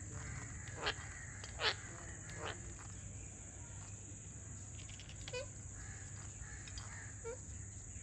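Birds calling: three short, harsh calls about one, one and a half and two and a half seconds in, then a few fainter ones later, over a steady high buzz of insects.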